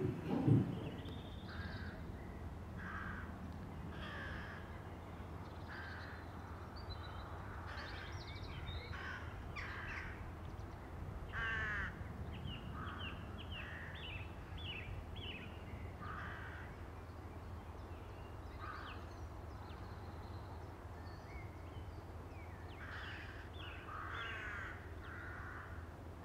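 Birds calling outdoors, with short scattered calls coming every second or two over a low steady hum.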